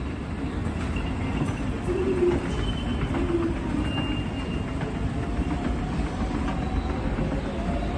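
Hitachi escalator running with a steady, even mechanical rumble and a light clatter of steps and drive.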